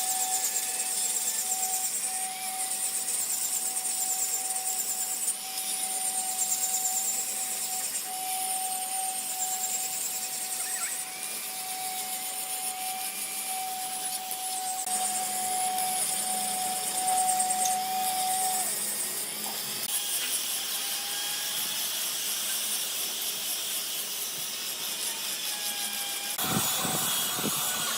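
A woodworking power tool or machine running steadily with a high hiss and a steady whine; the whine stops about two-thirds of the way through while the hiss runs on.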